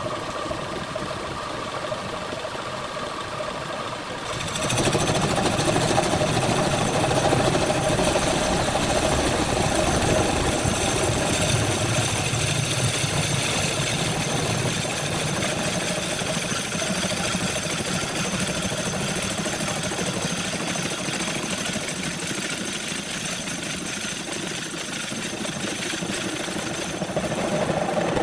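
Wood lathe running steadily, growing louder about four and a half seconds in and cutting off near the end.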